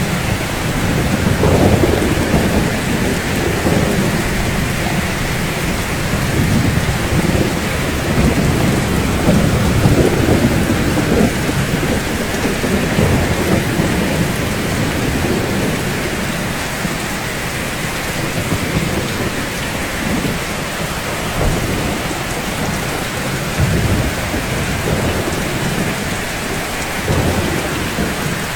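Steady heavy rain falling on rooftops, with low rolling thunder rumbling underneath; the rumble is strongest in the first half and eases off toward the end.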